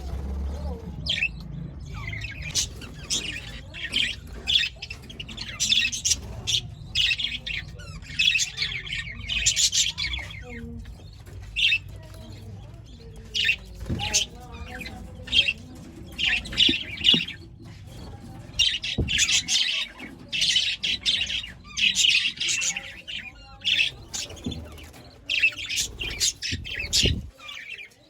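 Budgerigars chirping and chattering in bursts of quick, high chirps, with short pauses between the bursts.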